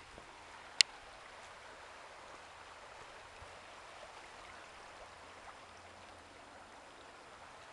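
River water flowing steadily and faintly. A single sharp click a little under a second in.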